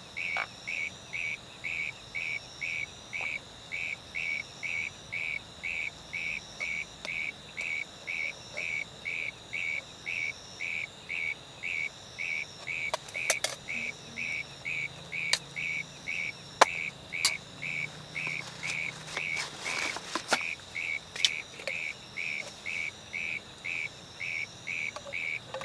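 Insects calling: short chirps in a steady rhythm of about two a second, over a continuous thin high-pitched trill. A few sharp clicks and a short rustle come in the middle.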